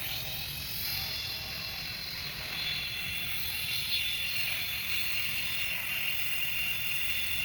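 A machine's steady high whine over a low rumble, growing stronger a few seconds in.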